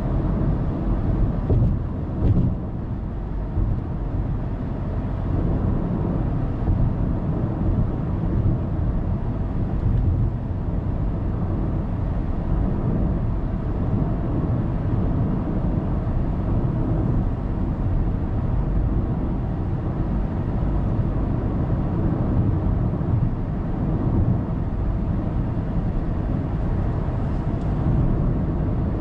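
Steady road noise of a car cruising on an expressway: a low rumble of tyres and wind, holding an even level throughout.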